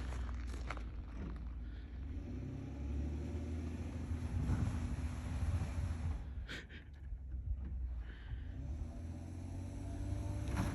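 Pickup truck engine revving as the truck is driven hard into deep snow, the revs rising and falling, with a sharp knock about six and a half seconds in; the truck bogs down and gets stuck.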